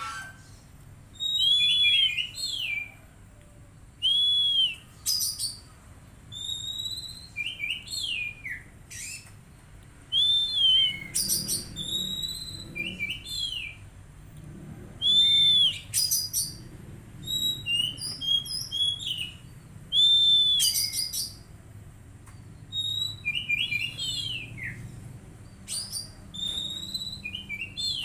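Oriental magpie-robin (kacer) singing in loud, varied whistled phrases, each with an arched whistle and quick downslurred chattering notes, a new phrase every one to three seconds.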